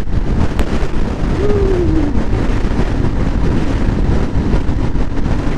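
Heavy wind buffeting the microphone over a Suzuki DR650's single-cylinder engine, riding at highway speed into a strong crosswind. A short falling tone comes about a second and a half in.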